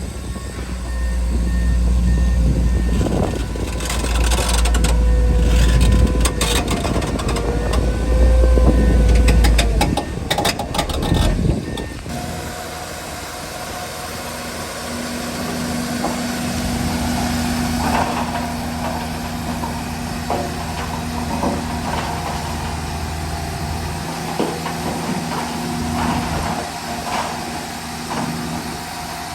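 Heavy diesel earthmoving machinery working: a loud, deep engine under load with clattering for about the first ten seconds, then a quieter, steadier engine running.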